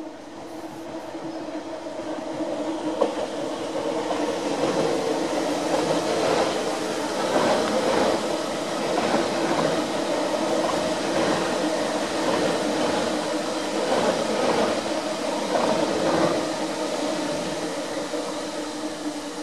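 Electric double-deck passenger train passing by, its running noise building up a couple of seconds in, staying strong with repeated wheel clicks, and easing off near the end.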